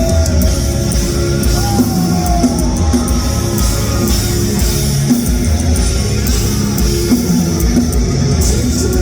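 Live rock band playing loudly: a drum kit and guitars carry an instrumental passage between sung lines, with some voice faintly in the mix.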